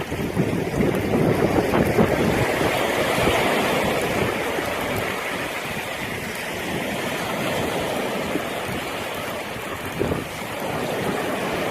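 Sea surf washing up onto a beach: a steady rush of waves, with some wind on the microphone.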